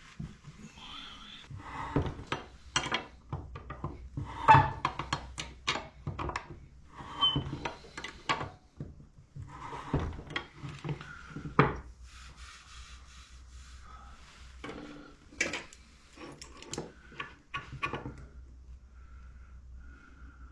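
Tools and parts being handled during motorcycle rear suspension work: an irregular string of knocks, clicks and scraping, busiest in the first half and sparser near the end.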